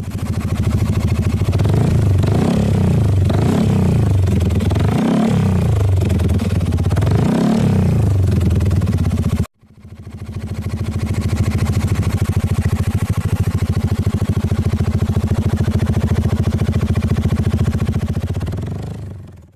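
Yamaha XMAX 300 scooter's single-cylinder engine running through a Yoshimura R77 carbon exhaust, revved up and down several times. After a sudden break it idles steadily with an even pulse, then fades out near the end.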